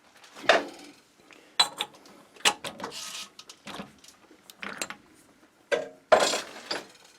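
Metal-on-metal clanks and rattles as a machined workpiece is loosened and taken out of a lathe chuck: a handful of sharp knocks spread over several seconds.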